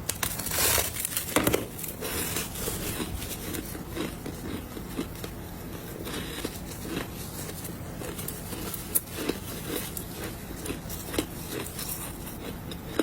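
A person biting and chewing ice close to the microphone: sharp crunches, the loudest two in the first second and a half, then smaller crackling crunches scattered through the chewing.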